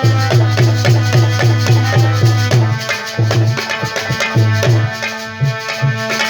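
Instrumental interlude of Indian folk devotional music: a hand drum plays quick strokes, about four a second, with falling bass bends. A held melodic note enters about halfway through.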